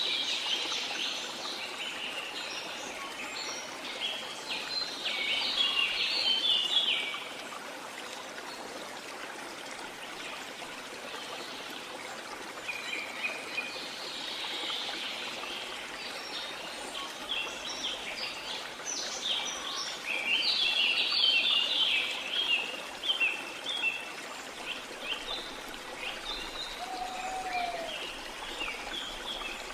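Steady rushing of a waterfall with birds chirping over it in bursts, loudest near the start and again a little past halfway.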